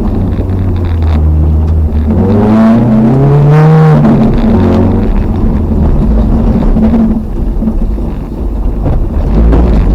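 Toyota RAV4's 3S-GE four-cylinder engine heard from inside the cabin, driven hard: it revs up with a climbing pitch a couple of seconds in, eases off for a moment about two-thirds through, then revs up again near the end.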